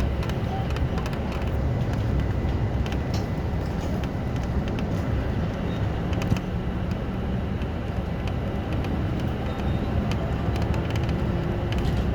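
City bus running steadily between stops, heard inside the cabin: a continuous low engine and road rumble with small rattling clicks from the bodywork.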